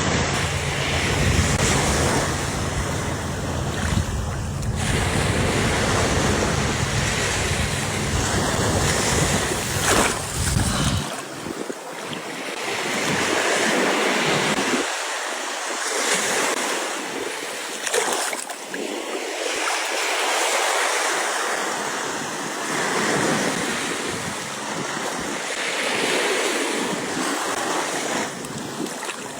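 Surf washing onto a beach, a steady rush of noise that swells and eases every few seconds. For roughly the first ten seconds wind buffets the microphone with a low rumble, which then drops away.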